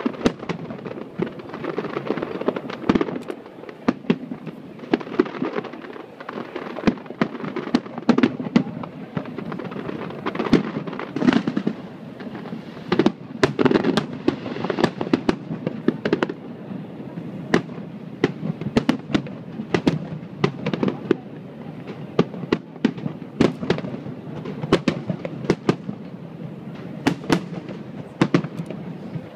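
Aerial fireworks display: shells bursting in quick succession, dozens of sharp bangs over a continuous low din of overlapping explosions.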